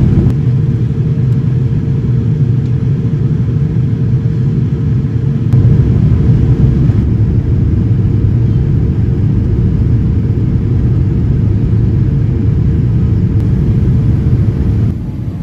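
Boeing 787-9 cabin noise heard from a passenger seat: a steady low rumble of the jet in flight with a faint steady hum above it, rising a little about five seconds in and dropping just before the end.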